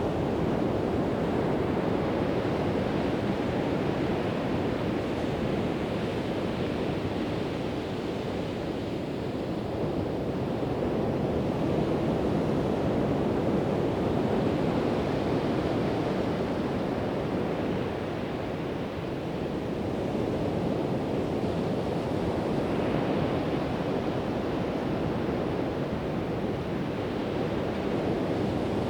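Pacific Ocean surf breaking on a sandy beach: a continuous wash of waves that swells and eases slowly, with a slight dip about two-thirds of the way in. Some wind on the microphone.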